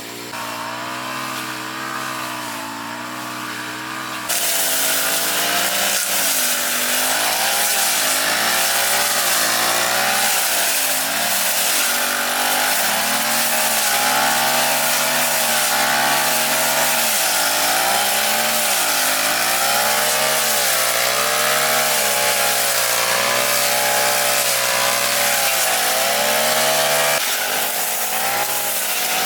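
Small petrol engine of a grass cutter running, its pitch rising and falling as the throttle is worked. It gets louder about four seconds in, with a hiss over the engine note as it cuts, and eases back a little near the end.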